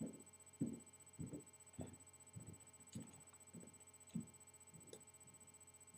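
Soft low thumps and knocks, roughly every half second, a few with a faint click: handling noise from sticks and trap parts being set up.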